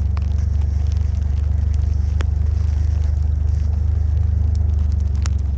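A vehicle's engine running at a steady pace, a constant low hum heard while riding, with a few sharp clicks or taps.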